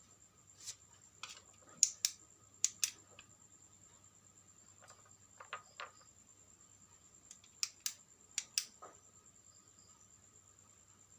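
Irregular sharp clicks and taps of small parts and tools being handled, several coming in quick pairs, over a faint steady high-pitched whine and low hum.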